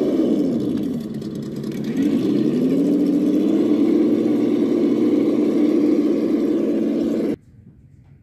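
Simulated engine note from an RC crawler's sound module, dropping in pitch, then revving back up and holding steady before cutting off suddenly near the end.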